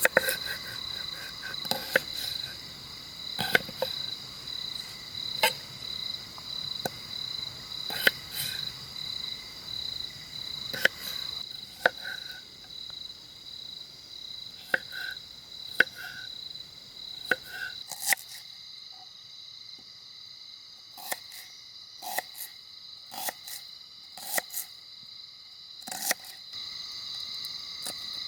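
Insects chirping steadily in a high, pulsing trill, with irregular sharp knocks and short clattering sounds every second or two over it.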